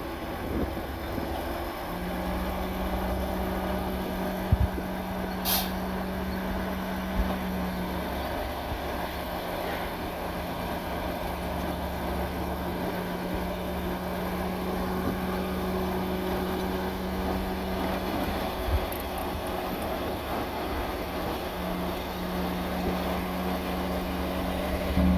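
Heavy diesel earthmoving machinery running steadily, with a short hiss about five seconds in and a few scattered knocks.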